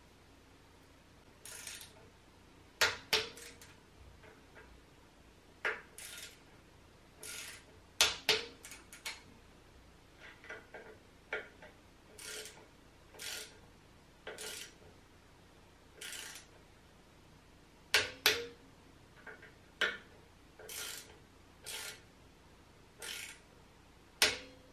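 Tools and small metal parts clinking and clattering as they are handled and set down: irregular single metallic knocks and clinks, roughly one every second, some with a short ring.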